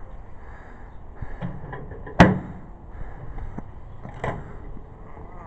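Microwave door handling: small clicks and knocks, with one sharp slam a little over two seconds in and another knock about four seconds in.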